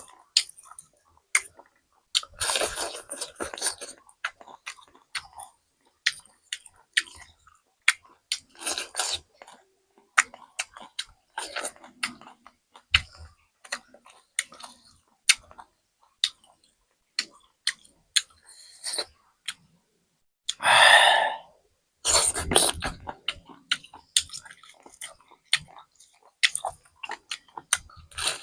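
Close-miked chewing and mouth noises of someone eating: many sharp wet clicks and short crunchy bursts in an uneven rhythm, with one louder, longer rush about three-quarters of the way through.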